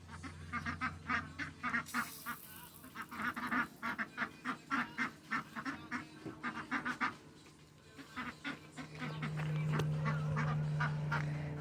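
Domestic ducks quacking, a rapid run of short calls, several a second, that thins out after about seven seconds. About nine seconds in, a steady low hum starts and grows louder.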